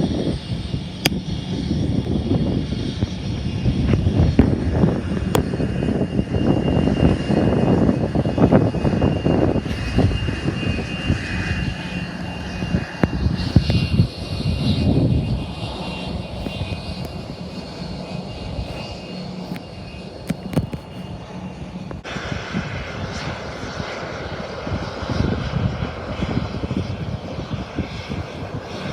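Jet airliner's engines running with a steady high whine under a loud, gusting low rumble of wind buffeting the microphone; a higher hiss comes in about two-thirds of the way through.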